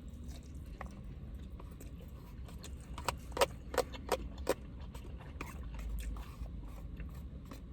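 Eating at close range: quiet chewing of a mouthful of food, with a quick run of about five sharp clicks a few seconds in.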